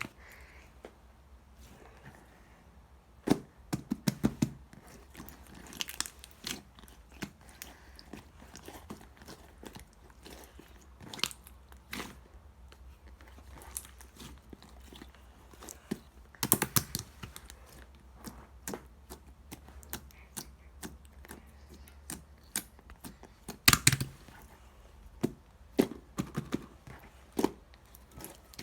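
Clear slime squished and stretched by hand, making irregular sticky clicks and pops, with a handful of louder pops scattered through.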